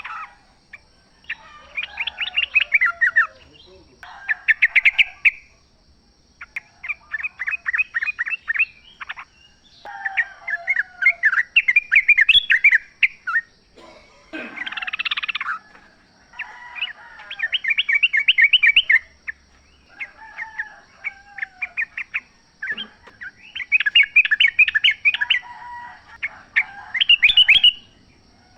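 Yellow-vented bulbul (trucukan) singing: repeated bursts of rapid, bubbly chattering notes, each a second or two long, with short pauses between them.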